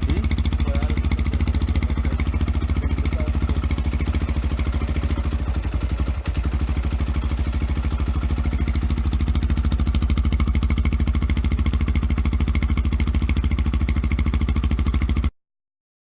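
Hyosung Karion RT125's single-cylinder 125 cc four-stroke engine idling steadily, with its even exhaust pulse. The sound cuts off suddenly near the end.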